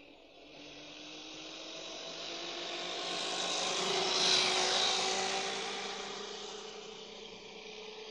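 Home-built electric motorbike driven by an 84-volt car alternator working as its motor, going past: a whine that climbs in pitch as it comes closer, is loudest about four seconds in, then fades away.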